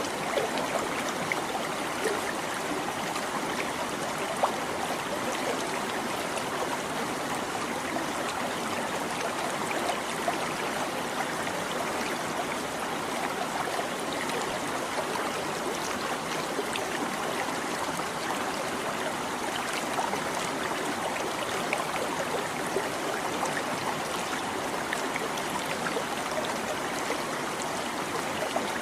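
Shallow stream babbling steadily over rocks, with small splashes and gurgles.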